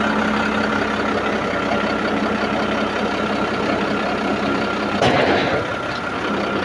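Boom truck engine running steadily while the loaded boom swings right. About five seconds in, one sharp crack: the wooden outrigger pad splitting under the load.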